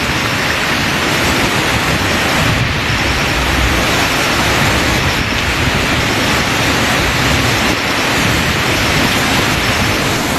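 Loud, steady rushing of water, with a deep rumble underneath, from monsoon downpour or runoff.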